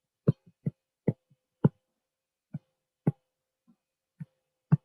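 About ten short, dull taps and knocks at an uneven pace, the sound of writing by hand on a hard surface.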